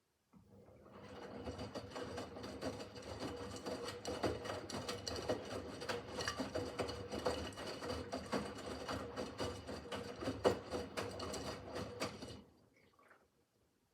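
Miele W5801 WPS washing machine's drum turning during the wash, motor humming under a dense clatter of clicks. It builds over about a second, runs steadily, then stops abruptly near the end, as in a wash cycle's drum turn before the pause.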